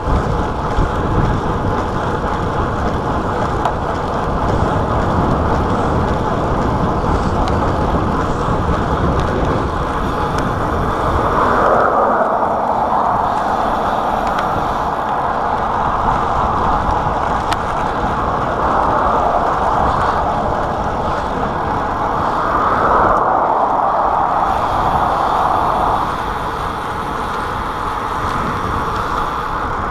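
Steady rushing road noise from riding a bicycle at speed along a road with traffic: wind and tyre noise at a chest-mounted action camera, with two louder swells, around twelve and twenty-three seconds in.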